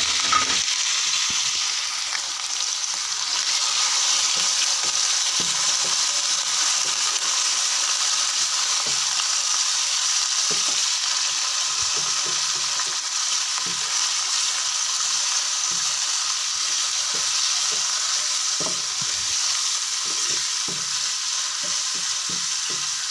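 Raw chicken pieces sizzling steadily in hot oil with fried onions in a nonstick wok, stirred with a wooden spatula that knocks and scrapes against the pan now and then.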